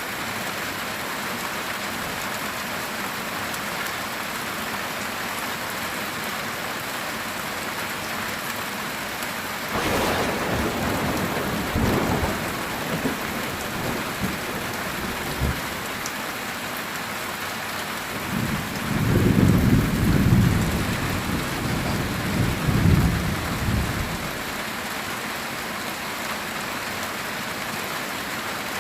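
Steady heavy rain on a metal tin roof, with a thunder crack about ten seconds in that rumbles on for a few seconds, then a deeper rolling rumble of thunder a little later.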